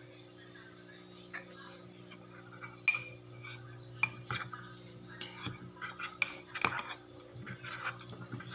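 A metal spoon clinking and tapping against a cup, with scattered light clicks. The sharpest ringing clink comes a little under three seconds in, over a steady low hum.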